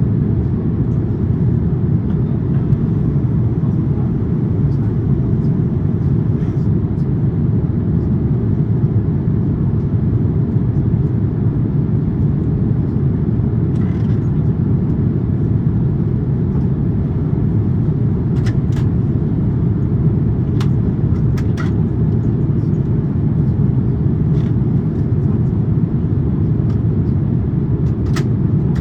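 Airbus A350-900 cabin in flight: steady, deep noise of airflow and the Rolls-Royce Trent XWB engines, with a few faint clicks in the second half.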